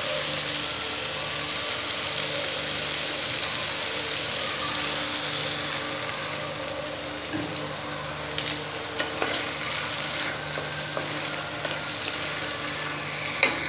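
Masala paste and potato pieces frying and sizzling in oil in a nonstick pan on high flame while a wooden spatula stirs them, with a few light knocks of the spatula in the second half. The masala is fully fried, with oil separating at the sides.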